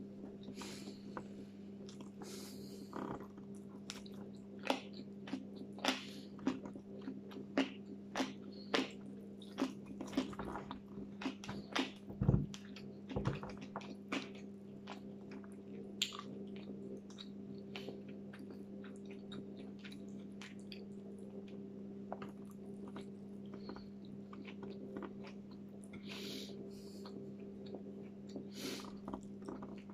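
A person chewing and biting food with her mouth close to the microphone, with a string of sharp, clicking crunches between about 4 and 14 seconds and a dull thump just after the middle. A steady low hum runs underneath.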